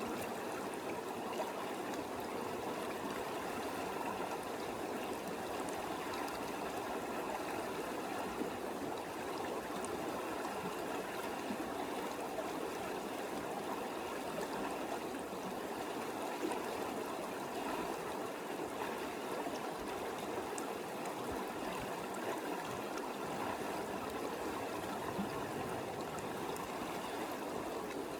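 Small creek running over rocks: a steady rush of flowing water.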